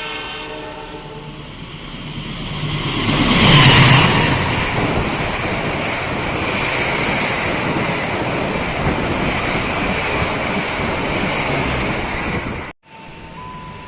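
Train passing close at speed: a loud rush of wind and wheel noise that builds to a peak about four seconds in, then continues steady as the cars go by.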